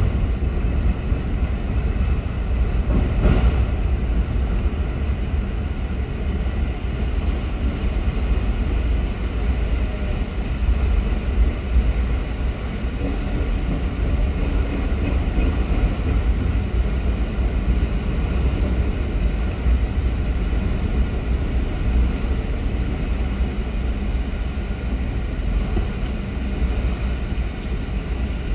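Freight train of autorack cars and stacked containers rolling past a grade crossing: a steady low rumble.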